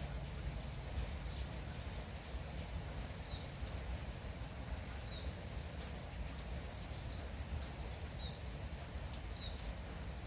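Steady light rain, with a small bird repeating a short, high chirp every second or two. A few sharp ticks sound over the rain.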